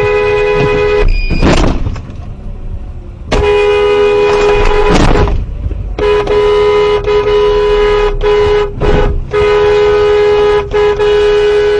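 A two-tone vehicle horn held down in long, loud blasts, cut off briefly a few times, with two loud rushing noise surges between the blasts about a second and a half in and about five seconds in.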